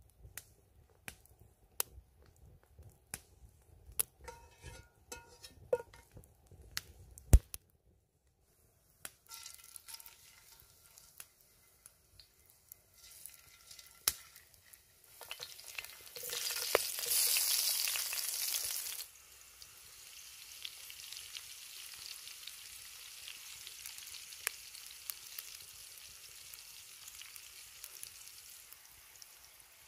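Potato chunks frying in hot fat in a cast iron skillet. First come a run of sharp clicks and knocks. Then a sizzle begins, swells to its loudest for a few seconds in the middle as the potatoes go into the fat, and settles into a steady sizzle.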